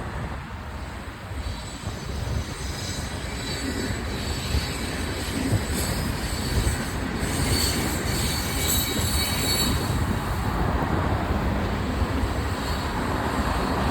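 Freight cars of a Union Pacific manifest train rolling past, steel wheels rumbling steadily on the rails with a thin high wheel squeal over it, growing gradually louder.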